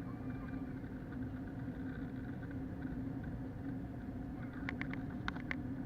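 Steady drone of an Airbus A321 cabin with its IAE engines running, heard from a window seat. Near the end comes a quick run of four or five sharp clicks.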